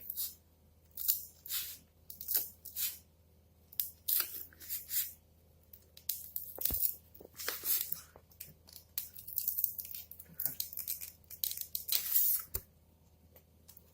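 Scissors cutting through a sheet of polyethylene packing foam, a run of short, irregular scraping cuts. There are two sharp knocks, one around the middle and one near the end.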